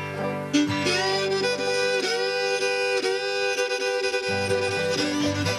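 Old-time string band playing a fiddle reel: the fiddle carries the tune in long bowed notes, and a rhythmic low accompaniment comes in about four seconds in.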